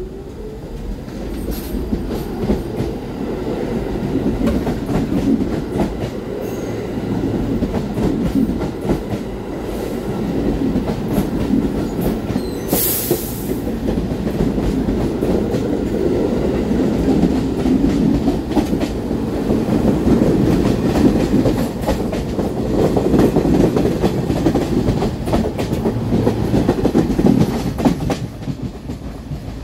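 New York City subway train running past, with the steady rumble of the cars and wheels clicking over rail joints. There is a brief hiss about 13 seconds in.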